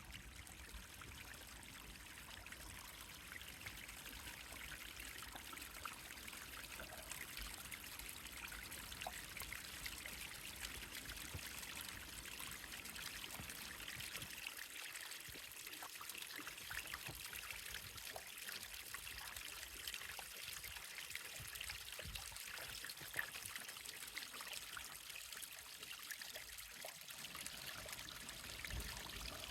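Running water trickling, a steady soft hiss with small splashes through it.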